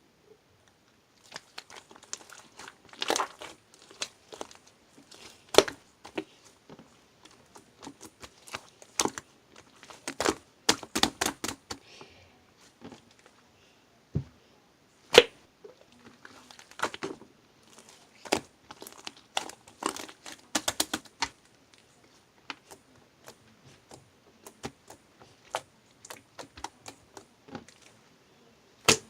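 Irregular sharp clicks and cracks, some in quick clusters, with faint crinkling between them.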